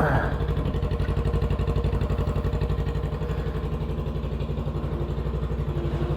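Honda Rebel 500's parallel-twin engine idling steadily with an even, fast pulse, not revved.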